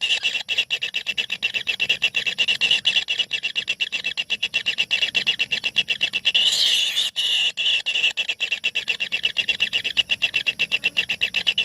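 A brood of kingfisher chicks in a nest hole giving a continuous, high-pitched begging chatter of rapid, evenly spaced pulses, several per second.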